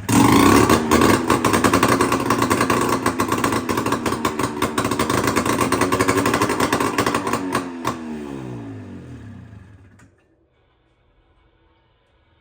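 Two-stroke snowmobile engine in a go-kart firing and running loudly with a rapid crackle, with no full exhaust fitted. About eight seconds in it is shut off and its pitch falls as it spins down to a stop.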